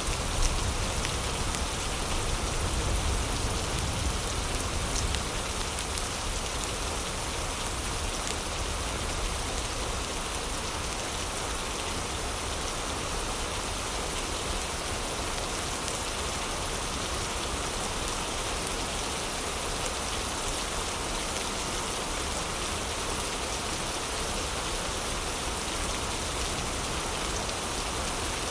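Heavy rain falling as a steady, even hiss, with occasional small crackles from a fireplace. A low rumble sits under it for the first few seconds.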